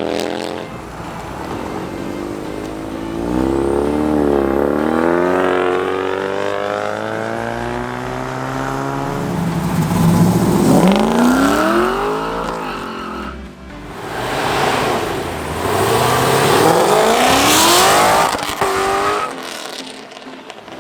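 Car engine revved hard several times, its pitch climbing and falling with each rev. The loudest revs come about halfway through and again near the end.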